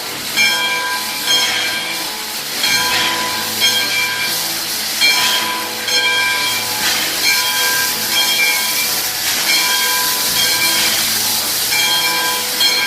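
Steam locomotive being fired up: a steady steam hiss with a pulse about once a second, each pulse carrying a high ringing tone.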